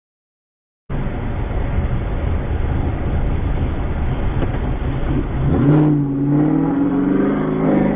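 Vehicle engine and road noise that start abruptly after about a second of silence. About five and a half seconds in, an engine note rises in pitch as the vehicle accelerates, with a short click just before it.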